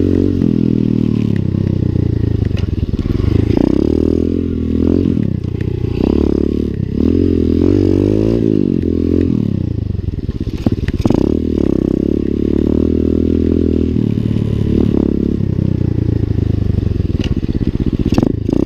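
Lifan 125 cc single-cylinder four-stroke pit bike engine being ridden, its pitch rising and falling again and again as the throttle is opened and closed. A few sharp knocks and rattles come through, the clearest around the middle and near the end.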